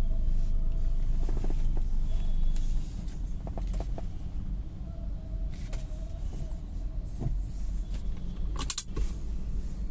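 Car engine running low, heard from inside the cabin while the car reverses; the rumble drops about three seconds in. Small clicks and knocks through it, with one sharp click near the end.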